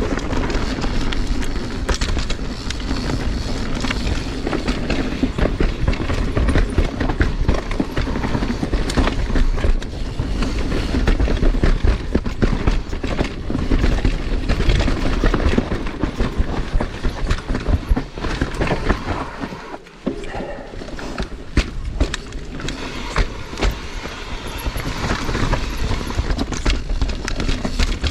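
Mountain bike riding down dirt singletrack: tyres rolling over rocks and roots and the bike rattling and clattering continuously, with a brief lull about twenty seconds in.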